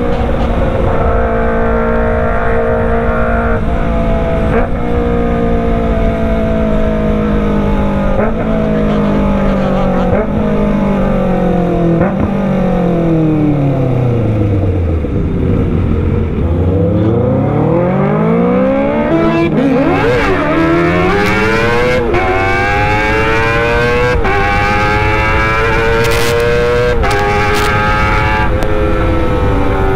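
Kawasaki ZX-25R's inline-four engine through a Racefit Slash full-system exhaust: the engine note falls over the first half, then climbs again in a series of short rising sweeps, each broken off by a gear change.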